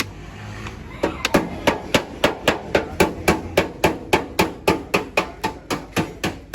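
Steady, rapid hammer blows, about three or four strikes a second, starting about a second in and keeping an even rhythm.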